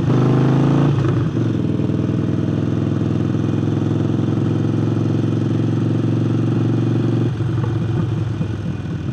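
Harley-Davidson Forty-Eight's air-cooled V-twin, breathing through a new aftermarket air intake, running under way. The revs climb in the first second, then the note breaks as it shifts and settles into a steady pull. About seven seconds in, the throttle rolls off and the engine note drops away.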